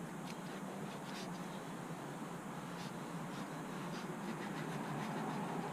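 Applicator pad being rubbed in circles over plastic engine-bay trim, a steady soft scrubbing with faint scattered ticks, as a trim coating is worked into the plastic.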